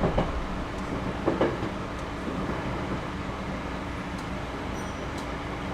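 Interior running sound of a 211 series 5000 subseries electric commuter train on the move, with a couple of wheel knocks over rail joints in the first second and a half, then a steadier, slightly quieter rumble and hum.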